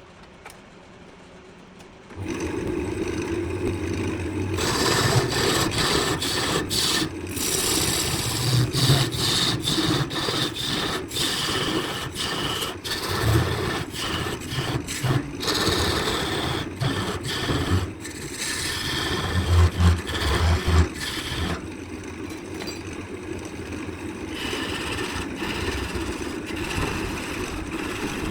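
A power tool cutting or scraping wood: a steady machine hum under rough scraping with many short ticks. It starts about two seconds in and gets louder about five seconds in.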